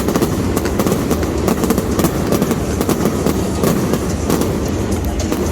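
Fireworks going off: a dense, irregular run of crackles and sharp cracks over a steady low rumble of bursting shells.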